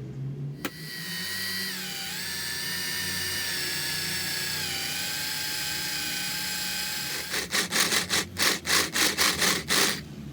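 Electric drill boring a hole in a metal cube: a steady motor whine whose pitch drops about two seconds in as the bit bites, then holds for several seconds. Near the end the whine stops and a quick run of sharp knocks follows.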